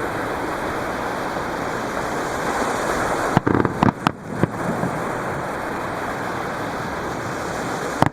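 Surf washing steadily onto the beach, with a quick cluster of sharp firework bangs about three and a half seconds in and another bang near the end.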